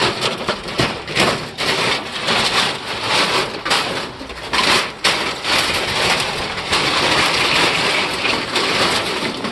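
Air conditioning unit being ripped open by hand for scrap: a loud, continuous crunching and crackling of torn metal, with many sharp clanks and snaps throughout.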